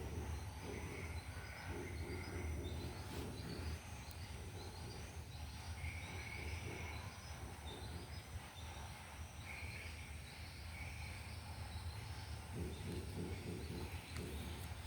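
Background noise with a steady low rumble and faint, short high chirps repeating about every half second, with longer high notes now and then.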